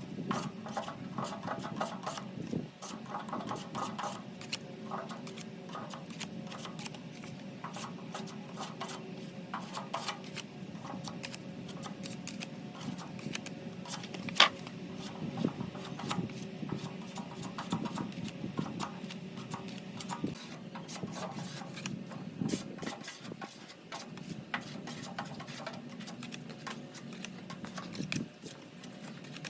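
Hand work on metal parts: irregular small clicks and rubbing over a low steady hum, with one sharp tap about halfway through.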